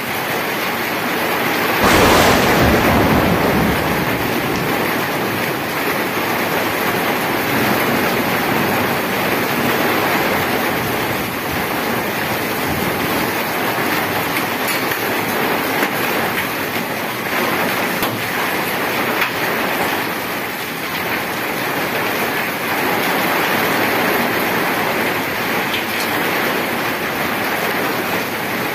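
Heavy rain falling steadily on a wet paved road, with a brief louder rumble about two seconds in.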